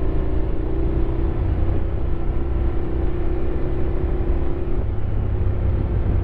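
Honda X-ADV 750's parallel-twin engine running under way, over a steady rumble of wind and road noise. Its steady note eases slightly and drops away about five seconds in, as if the throttle is rolled off.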